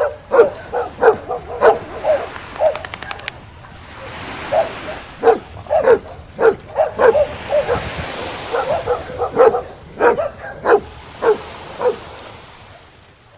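Dog barking over and over in short, sharp barks, about two a second, with brief pauses between runs.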